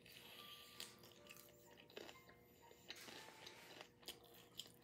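A person chewing sauce-coated fried chicken, faint and close, with a few sharp clicks scattered through the chewing.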